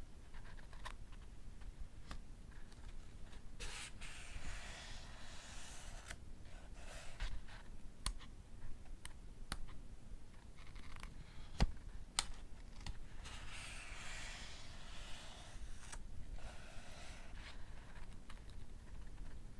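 Pages of a paperback book being turned, each turn a soft papery swish, with small sharp paper ticks in between.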